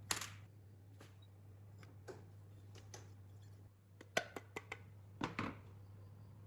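Small hard parts and hand tools clicking and knocking as they are handled, with a quick run of several clicks about four seconds in and a short scrape just after five seconds, over a steady low hum.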